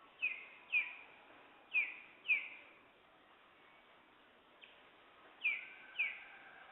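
A bird calling in short, sharp notes that slur downward, given in pairs about half a second apart, three pairs in all. Faint steady background hiss underneath.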